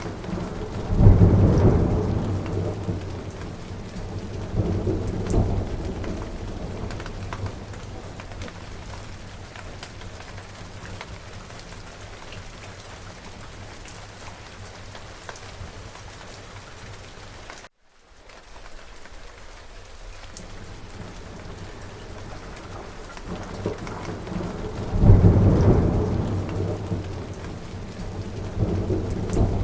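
Steady rain falling, with rumbles of thunder: a loud one about a second in and a smaller one a few seconds later, then the same again near the end. The sound cuts out for a moment a little past the middle.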